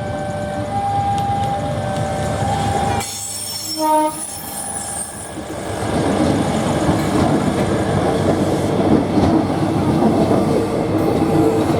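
Airport train on the bridge: a held horn tone in the first three seconds, a short horn note about four seconds in, then from about six seconds the loud rumble and clatter of the train's wheels passing over the rails.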